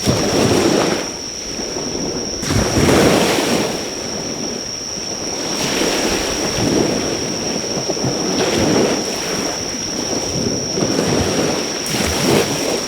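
Sea waves washing onto the shore, swelling and fading every two to three seconds, with insects trilling in one steady high tone.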